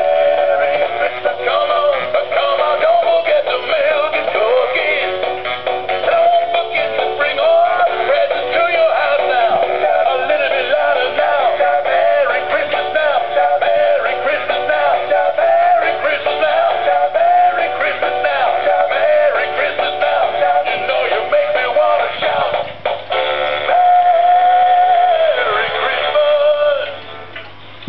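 Animated toy puppy singing a Christmas song through its small built-in speaker: a synthesized voice with backing music, thin and cut off in the highs. The song ends near the end.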